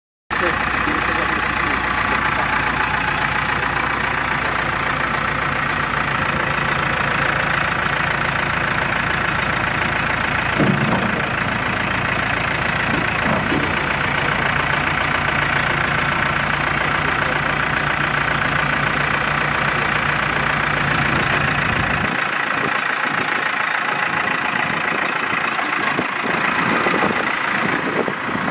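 Diesel engine of a CAT 430E backhoe loader idling steadily, with a high whine over it and a couple of short knocks partway through. The deep part of the engine sound drops away about three-quarters of the way in.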